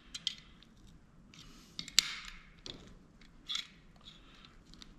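Small parts of a dome security camera being handled and prodded: scattered light clicks and short scraping rustles, with the sharpest click about two seconds in and another brief scrape about a second and a half later.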